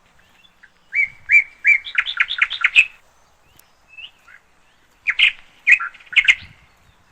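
A songbird singing: a phrase of fast repeated chirping notes about a second in, lasting about two seconds, a couple of short single notes, then a shorter burst of chirps about five seconds in.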